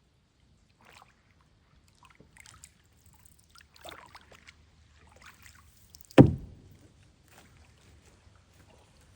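Canoe paddling: a paddle dipping and dripping water in soft, scattered splashes, with one loud thump against the canoe about six seconds in.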